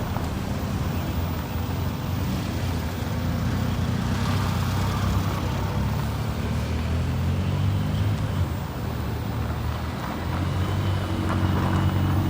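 Car engines running at low revs, a steady low rumble; a second engine note comes in about ten seconds in.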